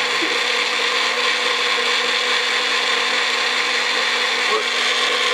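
Magic Bullet blender motor running steadily, blending a thick mixture of chicken, hot sauce, butter and water.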